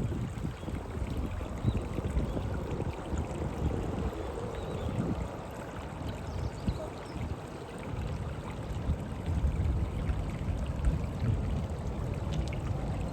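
Shallow river water flowing steadily over stones, with a gusty low rumble of wind on the microphone.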